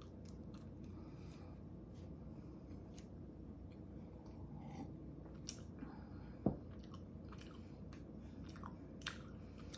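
Close-miked chewing of soft bread: small wet mouth clicks and crackles, with one sharp knock about six and a half seconds in.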